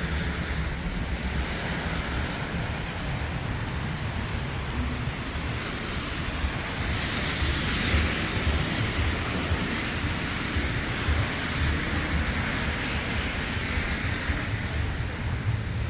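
Wind buffeting the microphone, a heavy fluttering rumble under a steady hiss of street noise that swells about halfway through.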